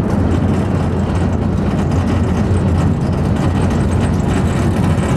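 Ferry's engine running with a steady, loud low drone and a noisy rush above it.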